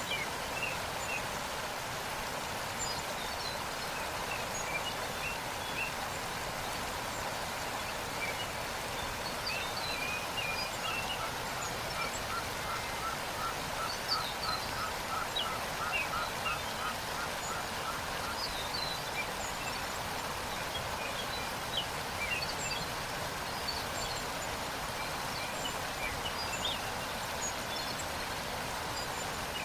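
Waterfall rushing steadily, with small birds chirping over it. In the middle, a bird repeats one note about three times a second for several seconds.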